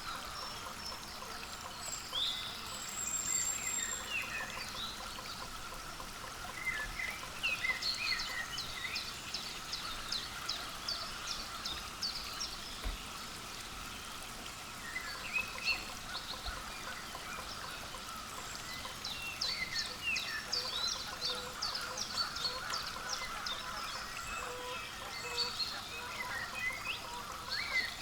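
Small songbirds calling repeatedly: short high chirps and quick chattering call series, coming in clusters, over a steady background hiss.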